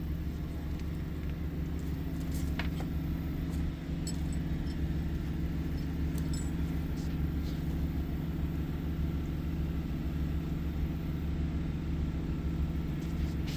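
Cummins 4BT four-cylinder diesel engine in a Case 586E forklift, running steadily at idle.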